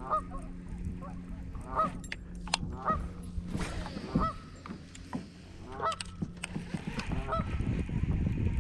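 Geese honking, a short call about every second and a half, with a steady low hum under the first few seconds.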